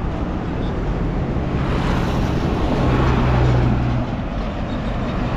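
Road traffic: a large vehicle's engine drones steadily for a few seconds over dense tyre and road noise, with wind on the microphone.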